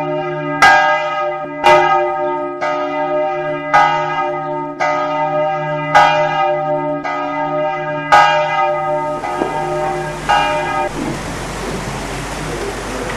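A church bell tolling, about one stroke a second, each stroke ringing on into the next. The tolling stops about eleven seconds in, leaving a steady hiss.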